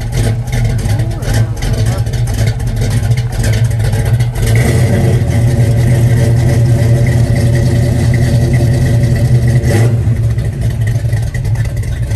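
1974 Plymouth Duster's engine running just after a cold start, loud and steady, getting louder and changing note about four seconds in.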